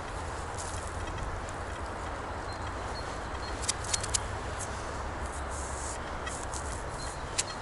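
Steady low rumble and hiss of outdoor background noise, road traffic and wind in a forest, with a few short sharp clicks about halfway through.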